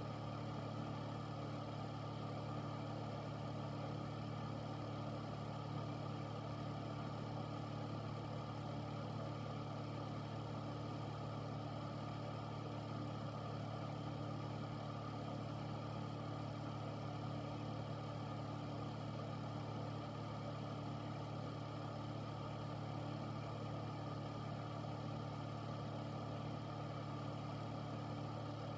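Air filter's fan running steadily: a low motor hum with an even rush of air over it.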